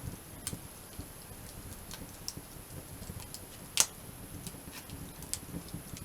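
Wood campfire crackling, with scattered small ticks over a low rumble and one sharp, loud pop about four seconds in.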